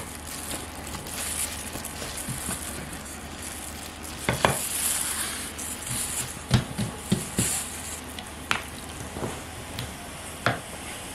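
Food sizzling in a frying pan, a steady hiss, with a utensil clinking and knocking against the pan several times.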